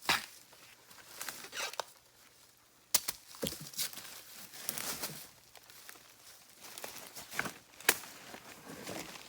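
Irregular rustling and crackling of plants and leaves, with a few sharp snaps about three and eight seconds in.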